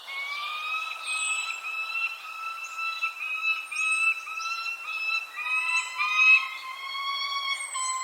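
Birdsong: a run of repeated, slightly rising whistled notes, about two a second, with a short high falling chirp every second and a half or so. A steadier, lower whistled call joins about five seconds in.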